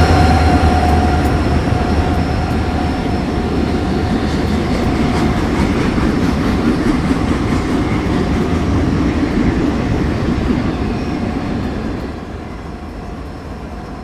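CSX freight train cars rolling past: a steady rumble with wheel-on-rail clatter, dropping off about twelve seconds in as the train moves away.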